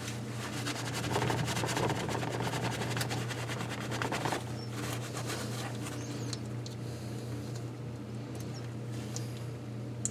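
Brisk scrubbing of engine parts during cleaning for the first four seconds or so, then a few light clicks, over a steady low hum.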